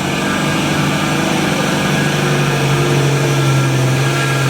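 Motor vehicle engine running at steady revs: a loud, even low hum with stacked overtones.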